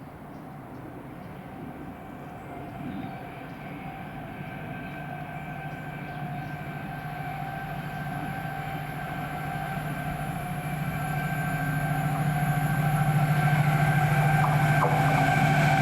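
A train approaching, growing steadily louder throughout, with a steady low hum and several higher steady tones from its traction equipment.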